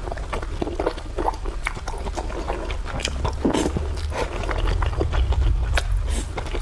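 A person eating close to the microphone, with irregular chewing and biting and many short clicks. The food is minced pork with tofu. A steady low hum runs underneath.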